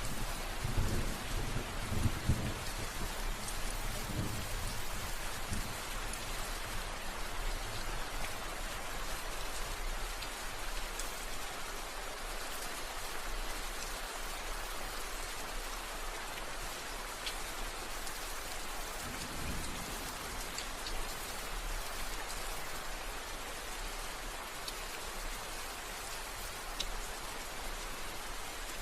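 Steady rain falling, with low rumbles of thunder in the first few seconds and again about twenty seconds in.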